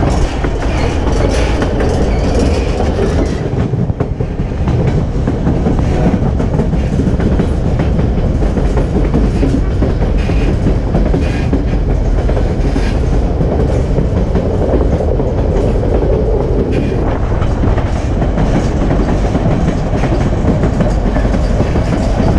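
White Pass & Yukon Route narrow-gauge passenger train rolling along the track, heard from a car's open platform: a steady rumble of the wheels with irregular clickety-clack from the rail joints.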